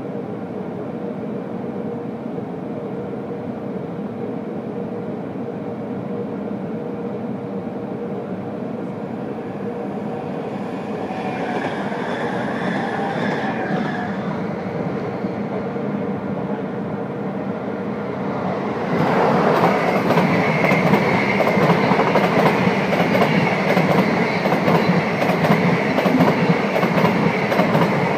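Train running on the rails: a steady rumble with a faint hum, and some higher tones coming and going around the middle. About two-thirds of the way in it grows louder and busier as a train of SBB passenger coaches runs close by, with a fast clatter of wheels on the track.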